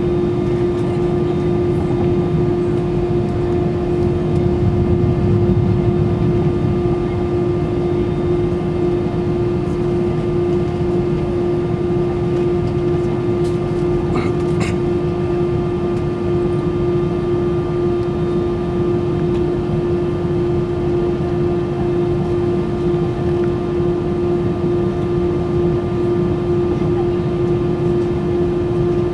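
Cabin noise inside an Airbus A320 airliner: a steady drone of the jet engines and cabin air with a constant hum on top. A couple of faint clicks about halfway through.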